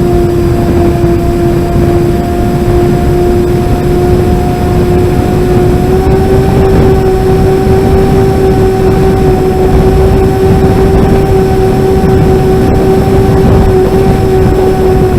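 SkyMule model plane's motor and propeller droning steadily in flight, heard from a camera on its canopy, with heavy wind buffeting on the microphone. The pitch steps up slightly about six seconds in.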